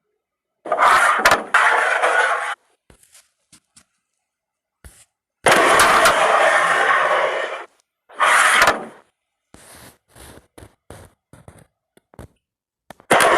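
Carrom striker flicked into the pieces with a sharp click, followed by a hiss of pieces sliding across the board. This happens about three times, with a fourth starting near the end, and there are small clicks of pieces being knocked or set between the shots.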